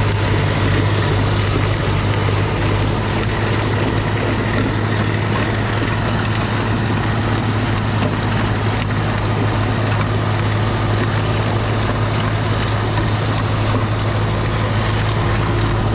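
Snowblower engine running steadily with a constant low hum while blowing snow.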